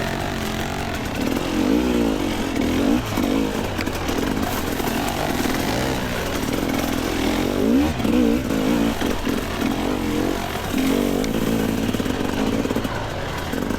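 Two-stroke dirt bike engine ridden on a rough trail, its revs rising and falling again and again as the throttle is worked over obstacles.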